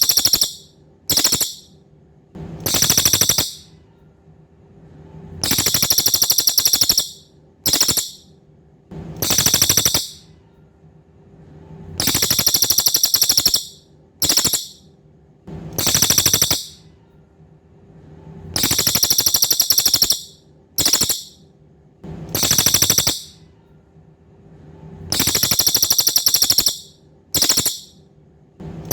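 Cililin songbird singing a repeated song: very high, fast buzzy trills about a second to a second and a half long, each followed by a short burst, the pattern repeating every three seconds or so. A faint steady hum lies underneath.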